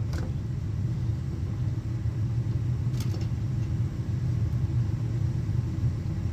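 A steady low rumble, with a few faint light clicks near the start and about three seconds in.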